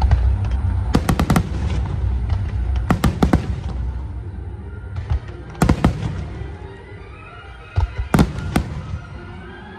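Aerial fireworks shells bursting in four quick clusters of sharp bangs, with a low rumble between them. Music plays underneath.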